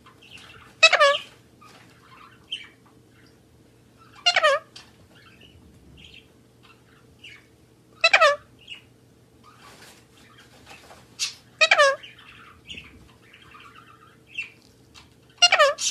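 A parrot calling loudly five times, about every three and a half to four seconds, with softer chirps between the calls.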